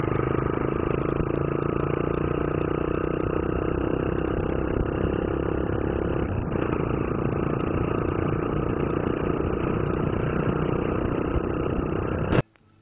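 Motorcycle engine running steadily, with an even rush of noise over it. It cuts off suddenly near the end.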